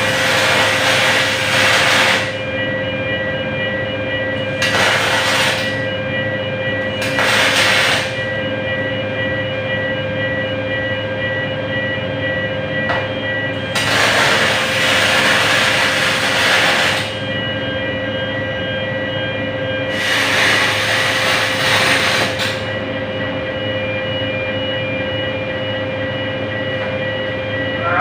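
MIG welding arc on aluminium with 1.2 mm wire, hissing and crackling in five separate runs of about one to three seconds each, over a steady machine hum with a constant high whine.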